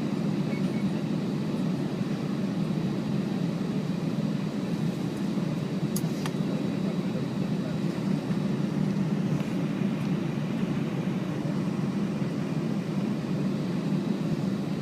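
Steady low rumble inside a jet airliner's cabin as it taxis with its engines at idle, with a faint steady high tone and a single click about six seconds in.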